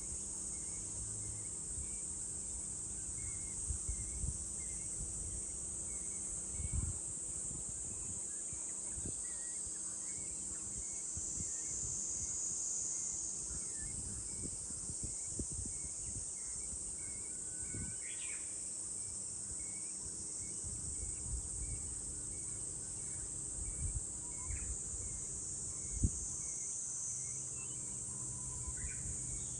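Cicadas droning steadily in a high pitch, with a small bird repeating a short chirp and a few brief falling bird calls. Occasional low thumps of wind on the microphone.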